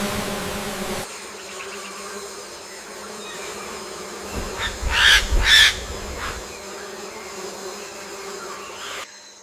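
Insects buzzing in rainforest ambience, with three loud short sounds close together about five seconds in.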